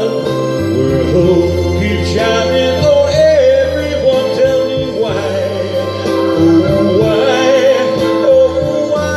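A song: a singer holding long, wavering notes over steady instrumental accompaniment with a bass line.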